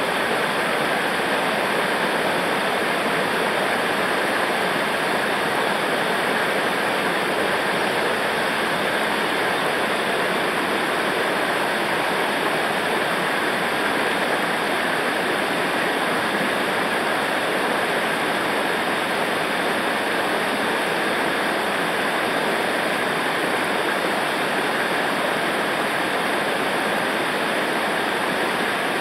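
Steady rush of fast-flowing river water over rapids or falls, even and unbroken.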